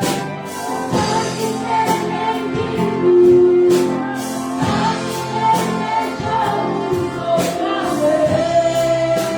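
Church orchestra of strings, brass and woodwinds accompanying singers in a worship song, with a steady beat.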